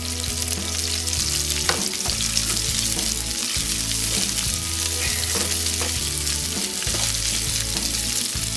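Red onions and garlic sizzling in olive oil in a hot frying pan, with a few short clicks of a utensil stirring against the pan.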